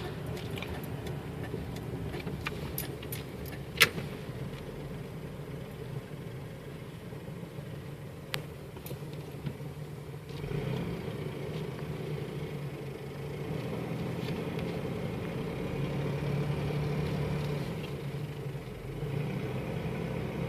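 Truck engine running with road noise, heard from inside the cab as it drives. There are a couple of sharp clicks early on, and the engine and road sound grow a little louder about halfway through.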